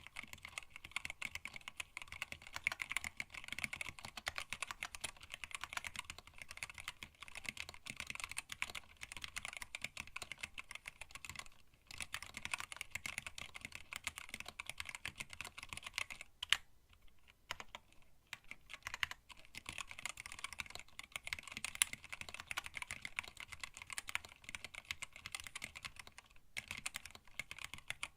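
Continuous typing on a hand-wired split mechanical keyboard with Tealios linear switches, blank PBT keycaps and a stacked acrylic case: a dense run of keystroke clacks, broken by short pauses about 12, 17 and 26 seconds in.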